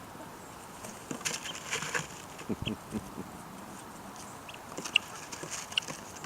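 Chickens feeding: pecking and scratching at feed, with a cluster of clicks about a second in, a few low clucks, and several short high peeps scattered through.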